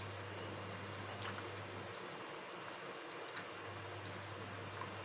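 Faint wet squishing and light clicks of fish pieces being mixed by hand in a lemon and spice marinade, over a steady low hiss and hum.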